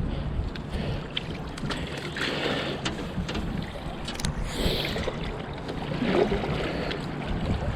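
Wind and moving river water around a small fishing boat, with a few light knocks.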